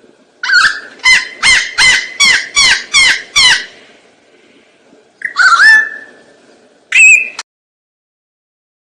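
An animal calling: a quick run of about eight loud, pitched calls, each sliding down in pitch, about three a second, then a pause, one longer call and a short one before the sound cuts off suddenly.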